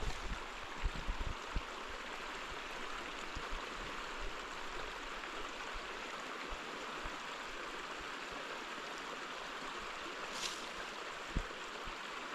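Steady rushing of running water, with a few faint low knocks near the start and once near the end.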